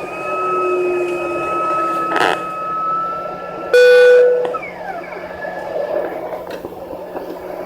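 Embraer ERJ-145's Rolls-Royce AE3007 turbofans whining steadily, heard inside the cabin. A loud, brief horn-like tone sounds about four seconds in, after which the whine falls in pitch and fades.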